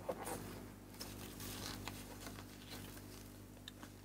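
A deck of tarot cards being handled and shuffled by hand: faint papery rustling and sliding of cards, with small clicks, busiest in the first three seconds and thinning out towards the end.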